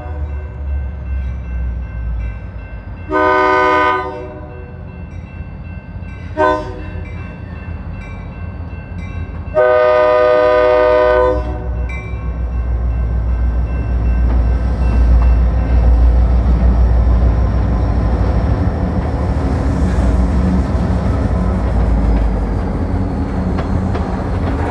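Diesel locomotive air horn sounding a long, a short and a long blast, completing the grade-crossing signal. Then the locomotive's engine rumbles and the tank cars roll over the crossing with clickety-clack from the wheels.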